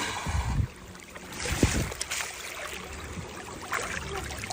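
Shallow rainwater runoff trickling over the ground, with a few brief splashes as hands grab at fish in it.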